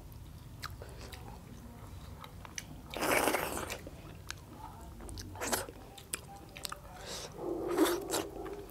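Close-up eating sounds: chewing, biting and wet mouth clicks as people eat by hand, with a few louder noisy mouth sounds about three, five and a half and seven and a half seconds in.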